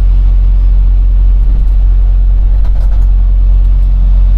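Semi truck driving, heard from the cab: a loud, steady low drone of engine and road noise, with a few faint clicks near the middle.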